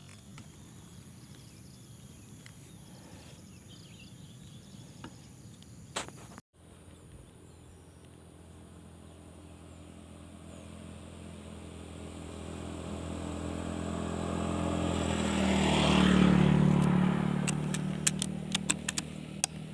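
Faint outdoor background, then a vehicle engine running at a steady pitch grows louder as it approaches, loudest about sixteen seconds in, and eases off as it passes. A quick run of sharp clicks comes near the end.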